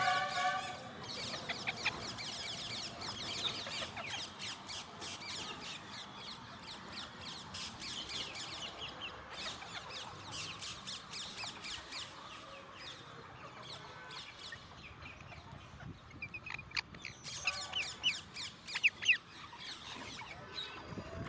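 Alexandrine parakeets chattering and squawking in a rapid run of high calls, with a burst of louder, sharper calls near the end.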